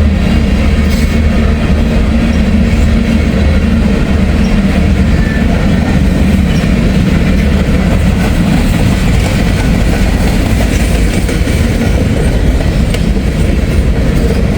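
Empty freight grain train rolling past, its wheels clacking over the rail joints with a steady, loud rumble.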